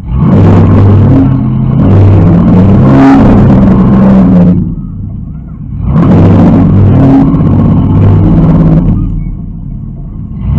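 Demolition derby car's engine revving hard, heard inside the gutted cab: two long bursts of about four and three seconds, with the revs dropping back in between.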